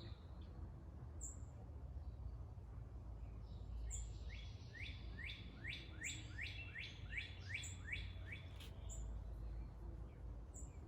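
A songbird sings a fast run of about a dozen rising whistled notes, about three a second, in the middle of the stretch. Short high chirps from another bird come every second or so, over a steady low rumble.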